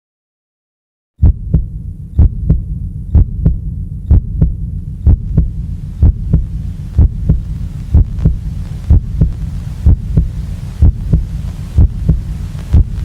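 Heartbeat sound effect: a double thump about once a second over a steady low drone. It starts abruptly about a second in.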